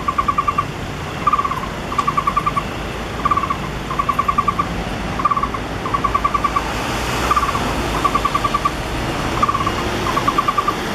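Taiwan barbet nestling calling from its nest hole in short bursts of rapid, even notes, about one burst a second, alternating shorter and longer runs. Steady road-traffic rumble lies underneath, with a car passing about seven seconds in.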